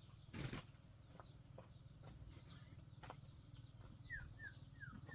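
Faint outdoor background with a thump about half a second in and a few scattered clicks, then a bird's short falling chirps, four in quick succession, near the end.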